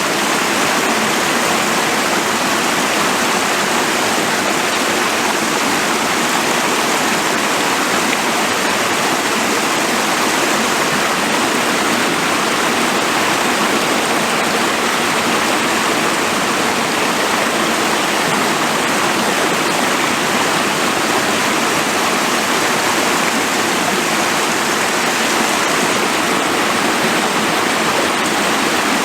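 Forest stream rushing, a loud, steady wash of flowing water.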